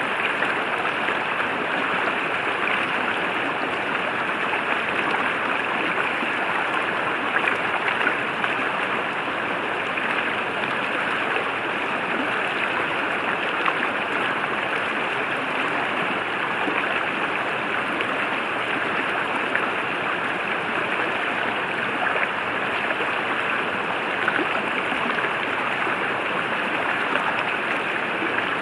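Forest river flowing over rocks: a steady, unbroken rush of running water.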